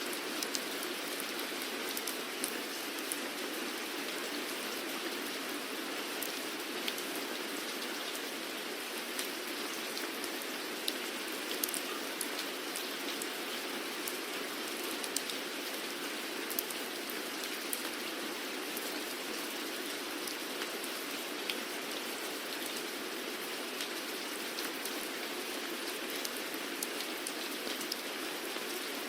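Steady rain falling, an even hiss with many distinct drops ticking sharply on a surface throughout.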